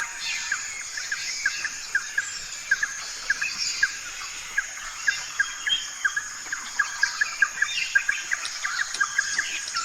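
Outdoor ambience of birds chirping: many short, high chirps repeated irregularly over a steady high-pitched hiss.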